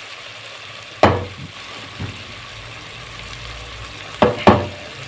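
Chopped vegetables frying in a pot on low heat, a steady faint sizzle, while a wooden spatula stirs them. The spatula knocks against the pot about a second in, and twice in quick succession near the end.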